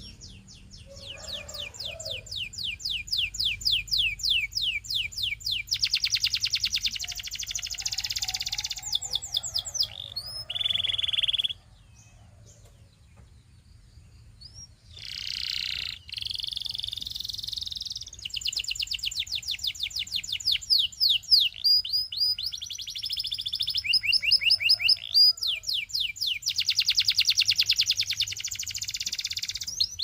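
Domestic canary singing in long, rapid trills of repeated high notes and buzzy rolls, with a break of about three seconds near the middle before the song resumes.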